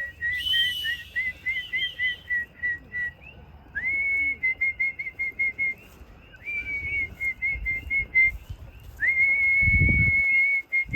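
Whistling to call pigeons back into the loft: four phrases, each a rising note followed by a quick run of short warbled notes, about four a second.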